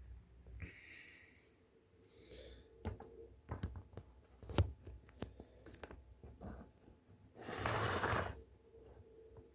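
Handling sounds at close range: a scattering of sharp clicks and knocks, then a short rush of noise about eight seconds in.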